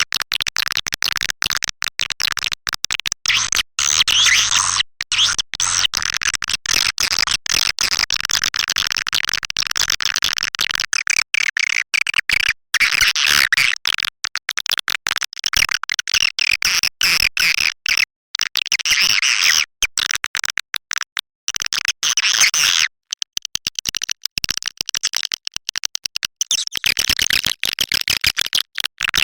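Swiftlet call recording: a dense, continuous chorus of buzzy twittering from many edible-nest swiftlets, the kind played to lure swiftlets into a nesting house. It is chopped by frequent split-second gaps and thins briefly a little past two-thirds of the way through.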